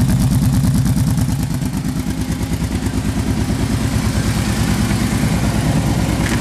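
Kawasaki Brute Force 650 ATV's V-twin engine idling steadily, shortly after a cold start without choke.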